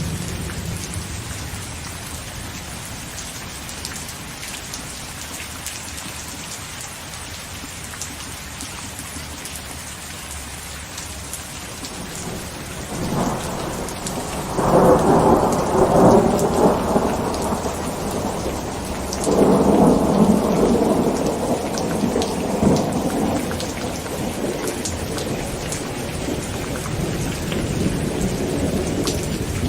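Heavy rain falling steadily on a tent, with thunder rumbling twice about halfway through, each rumble lasting several seconds.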